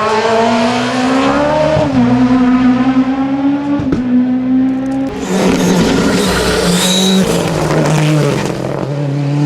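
Rally car engine held at high revs with brief breaks about 2 and 4 seconds in. Midway the engine note steps down in pitch several times under a noisy, rasping stretch as the car slows, then it picks up again near the end.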